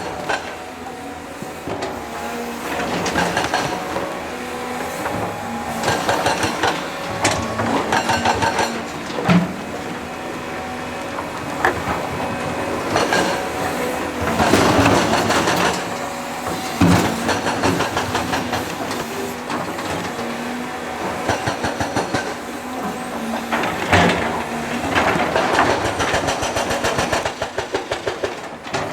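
Heavy diesel construction machinery working: an engine runs steadily under repeated metallic clanks and knocks, with a quick regular clatter of about three beats a second near the end.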